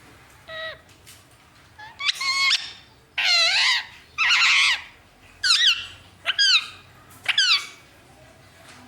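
Indian ringneck parrot calling: a series of about seven short, high screeching calls, the later ones falling in pitch.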